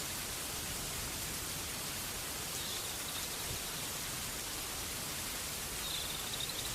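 Steady rain falling, an even hiss with no breaks. Twice a faint, short, high chirp sounds over it, about three seconds in and again near the end.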